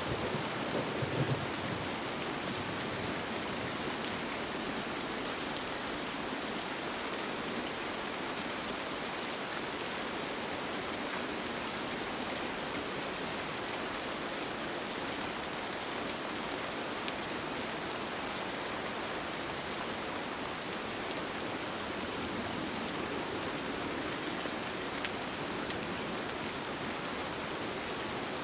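Steady, even rain, with the tail of a low thunder rumble dying away in the first second or two.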